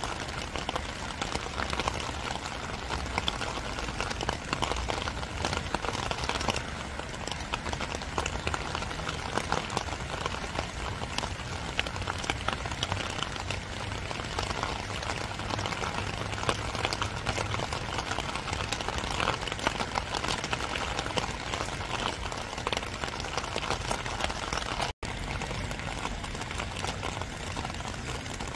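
Steady spring rain falling, a dense patter of many separate drops. The sound cuts out for an instant near the end.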